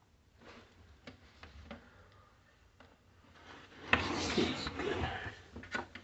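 Handling noise while unboxing a coffee machine: a few light taps and clicks, then about four seconds in a sudden loud rustle and scrape lasting about a second, followed by sharp clicks.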